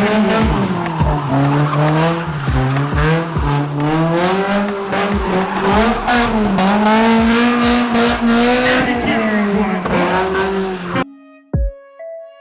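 Car engine revving hard, its pitch swinging up and down, with tyres squealing as the car slides, over a regular music beat. It cuts off abruptly near the end, leaving soft music.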